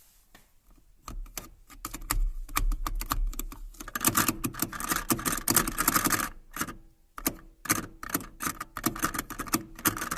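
Opel Omega A seat belt buckle being shaken, rattling with a quick clatter of plastic clicks that starts about a second in, is densest around the middle and then breaks into separate clicks. This loose buckle, standing in its upper position, is the cause of the annoying plastic knocking heard in the cabin over bumps.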